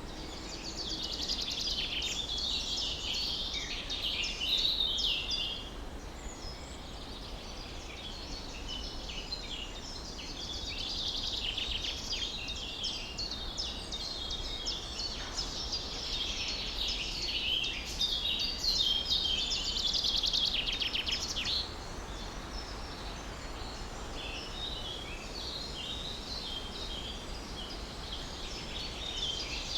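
Morning birdsong: many small birds chirping and singing at once in a dense chorus of high, quick chirps that thins for a few seconds twice, over a steady low background rumble.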